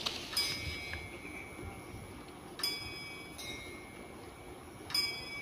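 A small metal bell struck three times at an even pace, about every two and a half seconds, each strike ringing on with clear high tones that slowly fade.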